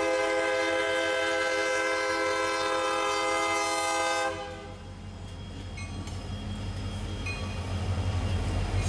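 Diesel freight locomotive's air horn sounding a steady chord, which cuts off about four seconds in. A low locomotive rumble follows and grows louder as the train approaches.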